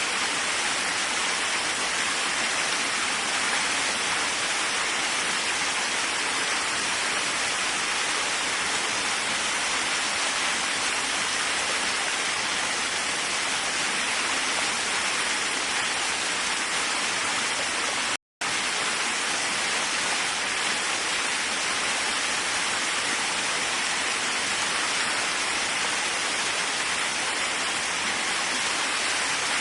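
Waterfall, a steady even rush of falling water, with the sound cutting out completely for a split second about two-thirds of the way through.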